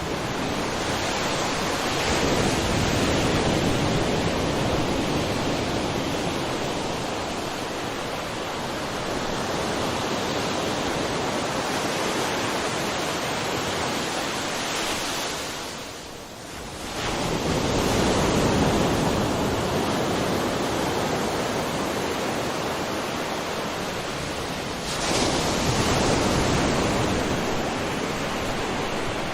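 Ocean surf: waves washing in continuously, swelling a few seconds in, again just past halfway after a brief lull, and once more near the end.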